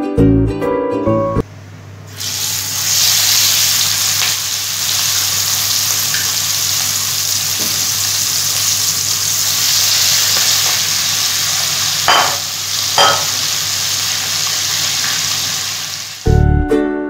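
Fish roe sizzling as it shallow-fries in hot oil in a pan: a steady, dense hiss, with two light knocks about twelve and thirteen seconds in. Ukulele music plays for the first second or so and returns at the very end.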